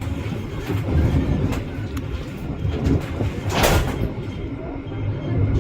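Train running on the rails: a steady rumble with light clicks, and a brief rushing whoosh about three and a half seconds in.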